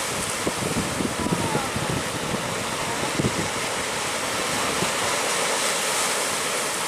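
Heavy surf and rushing water making a steady hiss, with wind buffeting the microphone in low knocks during the first three seconds or so.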